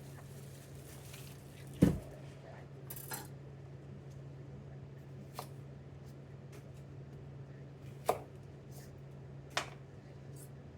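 A few separate knocks and clatters of kitchen prep work, knife and utensils on a cutting board and dishes, the loudest about two seconds in. Underneath runs a steady low hum of kitchen equipment.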